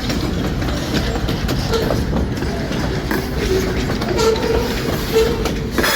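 Freight train's cars rolling past, wheels clattering over the rail joints, with brief faint wheel squeals and a sharp clank near the end.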